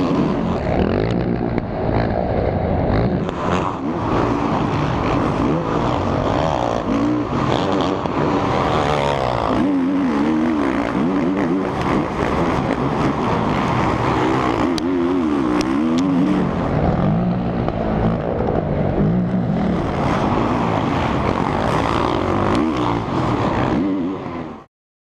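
Motocross bike engines at race speed, their pitch rising and falling steadily as the throttle is worked on and off.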